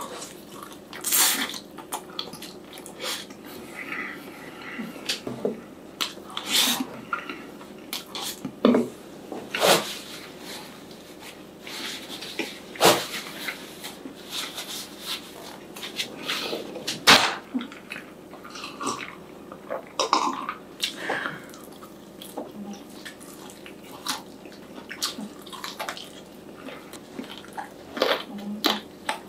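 Close-up eating sounds of a person chewing fried chicken and rice: irregular wet mouth smacks and clicks, a few of them sharper and louder.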